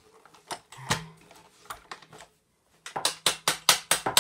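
Parts of a vintage Hoover Senior upright vacuum cleaner being handled during assembly: a single knock about a second in, then a quick run of about a dozen sharp clicks, about six a second, near the end.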